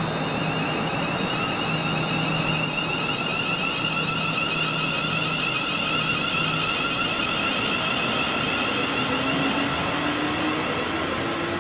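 Train passing on the main line: a loud, steady rush starting abruptly, with several high whining tones over it. Near the end a low tone rises in pitch.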